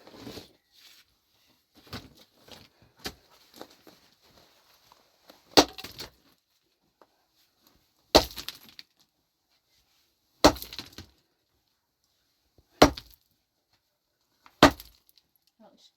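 Heavy blows of a hand tool, five in a row at a steady pace of about one every two and a half seconds, each hit followed by a short clatter of loose material. Softer scattered knocks come in the first few seconds.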